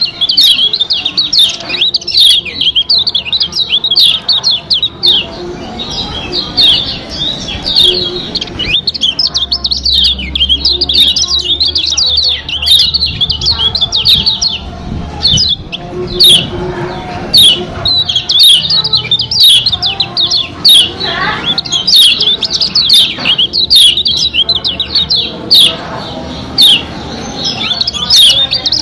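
White-eye (pleci) song: a fast, unbroken twitter of short, high chirps, the kind of song used as a lure to set other white-eyes singing.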